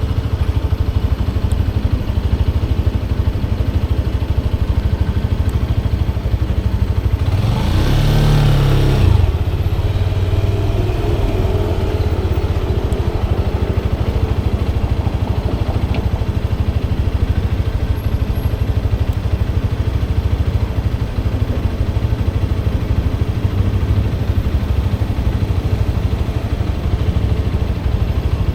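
Motorcycle engine running steadily while riding. About eight seconds in there is a brief louder swell.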